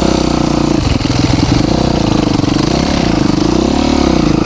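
Yamaha YZ450 four-stroke single-cylinder dirt bike engine running under changing throttle while being ridden, its pitch falling and rising several times.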